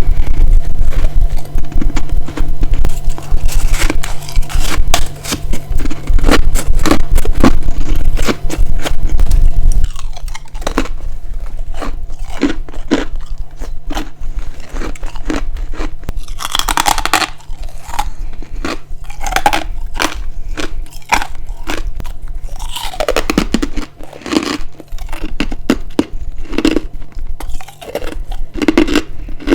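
Close-miked crunching and chewing of ice: dense, loud crunches over a heavy low rumble, which drops away about ten seconds in, leaving quieter, separate bites and crunches.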